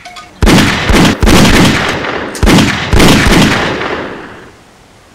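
Four loud gunshots in two pairs, each ringing on, with the echo fading away over a second or two after the last.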